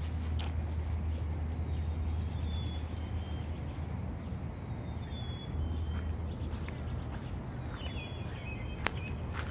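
Steady low rumble with a few short, high bird chirps scattered through, and a single sharp click near the end.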